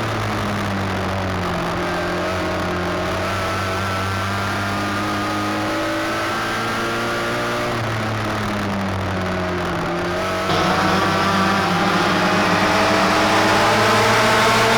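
Midget race car engine running at speed on track, its pitch slowly falling and rising. About ten seconds in, the sound abruptly jumps louder and brighter.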